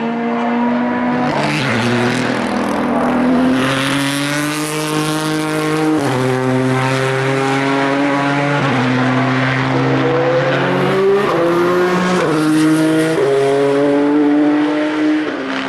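Several endurance race cars' engines running at once on the circuit. Their notes climb under acceleration and jump abruptly at gear changes several times.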